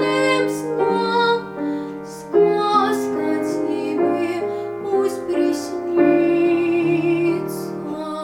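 A girl's voice singing the closing phrases of a slow lullaby, holding notes with vibrato, over piano accompaniment; the music gets softer near the end.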